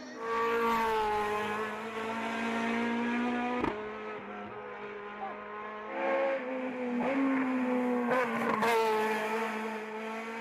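Race car engine at high revs climbing the hill, its note held high and shifting in pitch several times, with sharp cracks about four seconds in and again around eight seconds.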